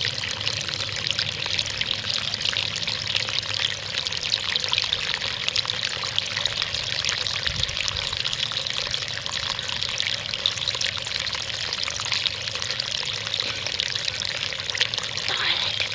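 Water from tiny waterfalls in a shallow stream, pouring and trickling steadily with a splashy, babbling sound close to the microphone.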